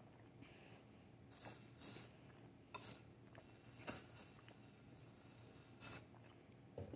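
Near silence: room tone with a few faint, brief clicks and rustles scattered through it.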